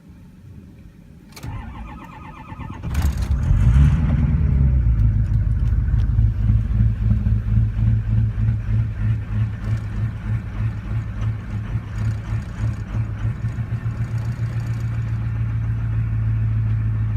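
2003 Ford 6.0 Powerstroke V8 turbo-diesel cold-starting at −3°F without its block heater plugged in. The starter cranks for about a second and a half, the engine catches and flares up in revs, then settles to an idle that runs unevenly at first and smooths out near the end.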